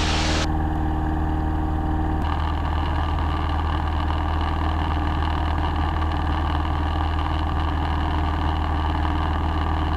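Piper PA-22 Tri-Pacer's engine and propeller droning steadily in flight, heard inside the cabin, with a faint hum that cuts off about two seconds in.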